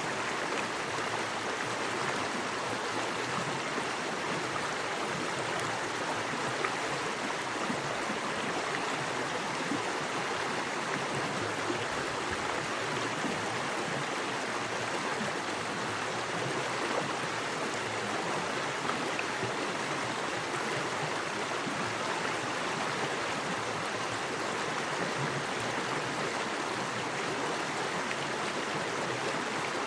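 Small woodland creek with fast water running over rocks: a steady, even rushing with no let-up.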